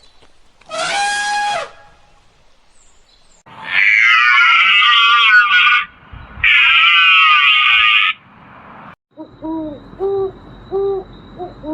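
A string of animal calls: one short call falling in pitch, then two long, loud, harsh calls, then a run of short, low hoots repeated about once a second near the end.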